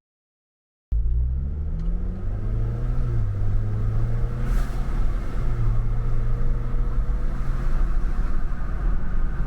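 Ford Bronco's engine running through an XForce VAREX valved exhaust: a steady low exhaust rumble that starts about a second in after a brief gap of silence, its pitch dipping slightly about three seconds in and rising again a couple of seconds later.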